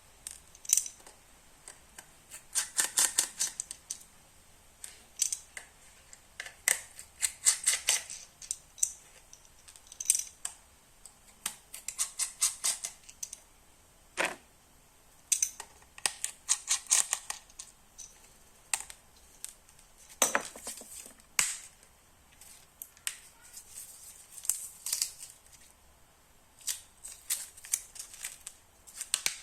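A parcel being opened by hand: runs of quick snips, clicks and crinkles of packaging, with a few single sharper knocks in between.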